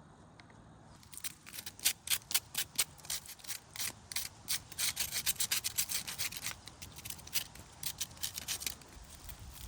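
Repeated rasping, scraping strokes, about three to four a second. They start about a second in and stop shortly before the end.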